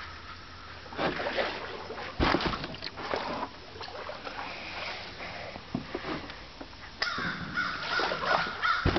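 Canoe paddling: a few knocks of a paddle against the hull, over the wash of water. A bird calls near the end.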